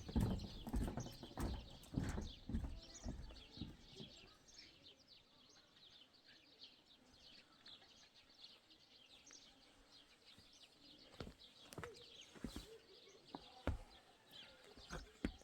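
Footfalls on hard ground fading away over the first few seconds, then faint high bird chirps. A few sharp knocks come near the end.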